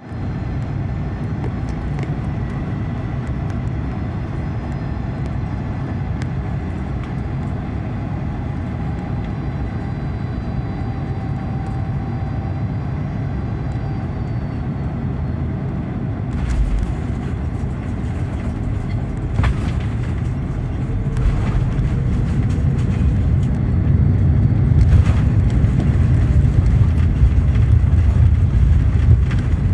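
Cabin noise inside a Boeing 777-200 landing: a steady low rumble of engines and airflow. A heavy thump comes just past the middle, after which the rumble grows louder, with a couple of sharp knocks.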